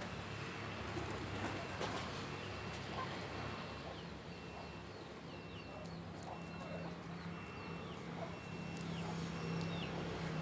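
Pigeons cooing over a low steady hum, with a short high peep repeating about every 0.7 s.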